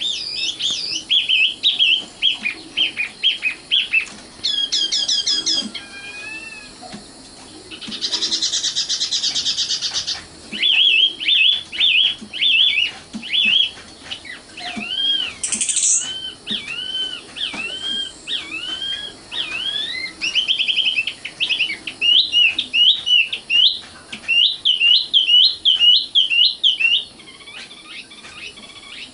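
Common nightingale singing a long, varied song. It is made of series of rapidly repeated whistled and upslurred notes, broken about eight seconds in by a dense buzzy rattle of about two seconds.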